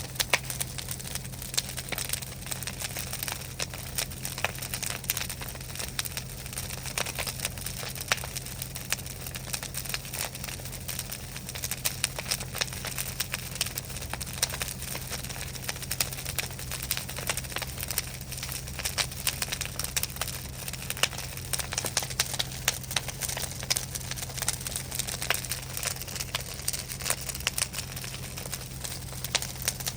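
Large bonfire burning, crackling with frequent, irregular sharp pops over a steady rush, with a low steady hum underneath.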